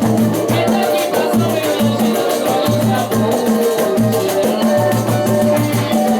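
Samba band playing, with a bass line in short repeated notes and steady shaker and drum percussion keeping the beat.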